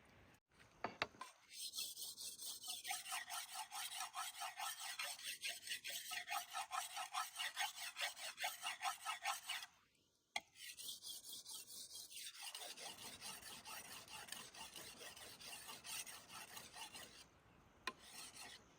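A hand tool rasping in quick, even strokes, about three a second. The strokes break off briefly about halfway through, then resume and stop shortly before the end.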